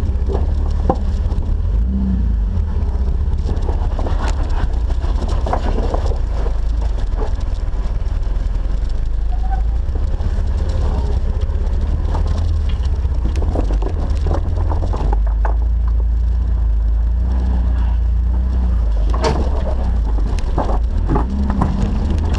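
Jeep's engine running at a steady low rumble while driving off-road, with scattered knocks and clicks over it.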